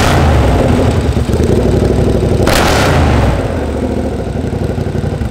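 KTM 1290 Super Adventure T's V-twin engine running loud through an aftermarket MIVV exhaust, with a short blip of the throttle about two and a half seconds in, then settling a little quieter toward the end.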